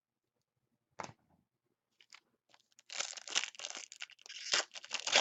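A trading card pack wrapper being torn open and crinkled: one sharp snap about a second in, then dense crackling and rustling of the wrapper from about three seconds in.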